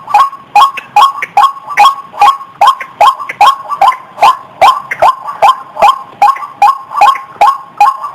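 White-breasted waterhen (ruak-ruak) calling: a steady, loud run of short, mid-pitched 'wak' notes, about two and a half a second, without a break.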